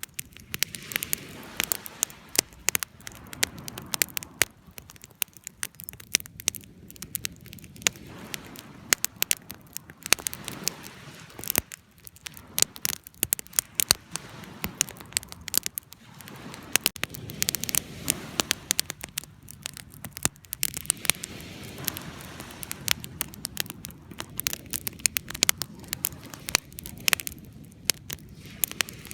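Wood campfire crackling, with frequent sharp, irregular pops over a low, steady rush of burning.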